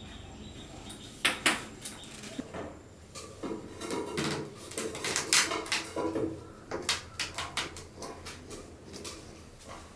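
Irregular clinks and knocks of hard objects being handled, beginning about a second in and densest in the middle.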